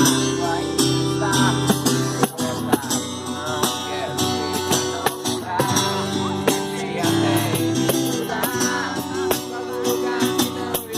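Acoustic guitar strummed while a group sings along.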